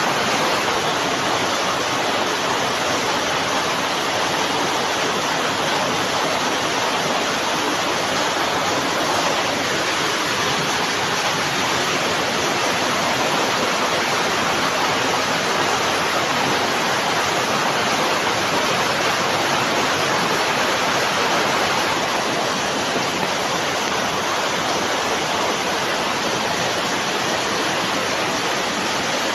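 Heavy rain falling steadily: a dense, even hiss with no single drops standing out.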